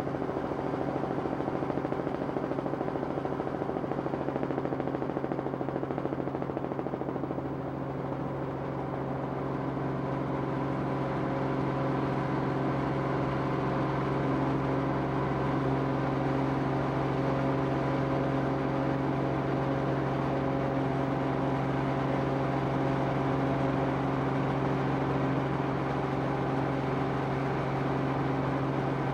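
Aircraft engine drone heard from inside the cabin during aerial filming, steady and unbroken, with several steady tones in it.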